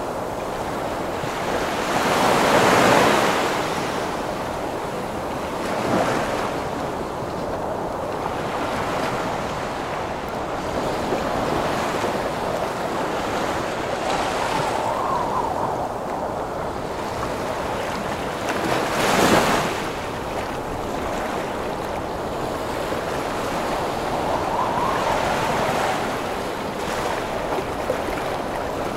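Storm at sea: heavy surf breaking continuously, with howling wind gusts that rise and fall in pitch. Waves crash loudest a couple of seconds in and again about two-thirds of the way through.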